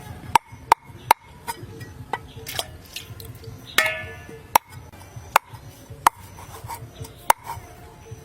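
Knife chopping on a cutting board, most likely cutting up chicken feet: sharp, irregular knocks roughly one a second, each with a short ring. A short pitched sound comes about four seconds in.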